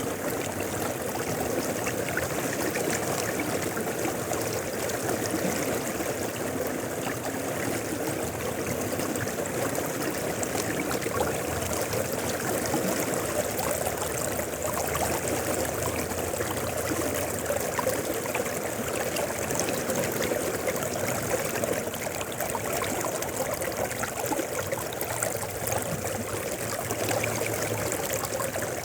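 A mountain river flowing, a steady, unbroken sound of running water.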